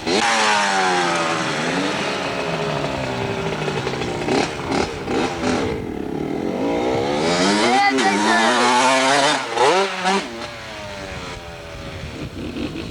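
Dirt bike engine riding close by, revving up and down. It comes in suddenly and loud with a falling pitch, then climbs in revs to its loudest about eight to ten seconds in, and fades near the end.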